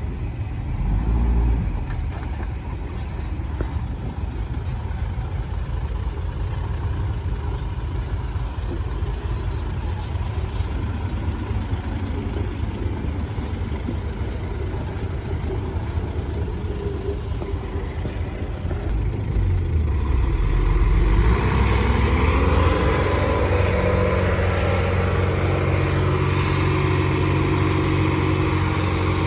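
Diesel engine of heavy earthmoving machinery running under a steady low rumble. About twenty seconds in it revs up, its pitch rising and then holding higher and louder.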